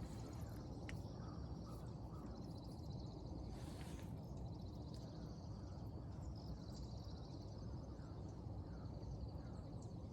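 Faint outdoor background: a steady low hum, an insect trilling in a fast high pulse, and scattered short bird chirps. A brief scratchy sound comes about four seconds in.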